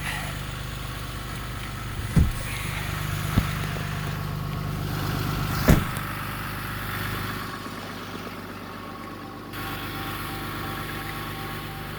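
Ram 3500's 6.7 L Cummins turbo diesel idling with a steady low hum. Sharp knocks come about two, three and a half and six seconds in, and a faint pulsing tone starts near the end.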